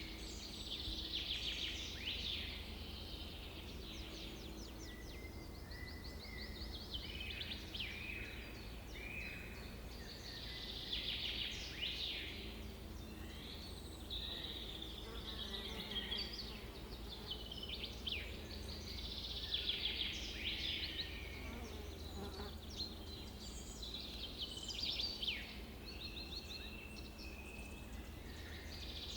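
Several small birds singing and chirping: quick trills and rising and falling notes in bursts every second or two, over a steady low rumble of outdoor ambience.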